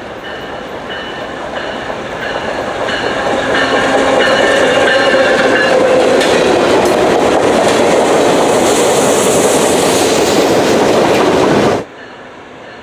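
MBTA diesel work train with a tank car passing close by: engine and wheel noise grow louder over the first few seconds, then hold at a steady loud level as the cars go past. Near the end it cuts off abruptly to a quieter, distant train approaching.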